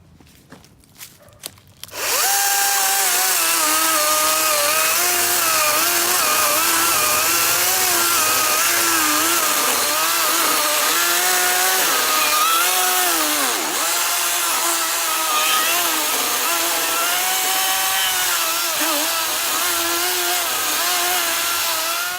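DeWalt FlexVolt 60V MAX brushless 16-inch cordless chainsaw starting up about two seconds in and cutting through a solid log with a steady electric whine. Its pitch wavers and dips now and then as the chain takes load, but it does not bog down, and it cuts off near the end.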